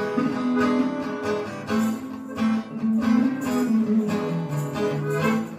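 Acoustic guitar strummed in a song's instrumental introduction, with the low notes stepping down about four seconds in.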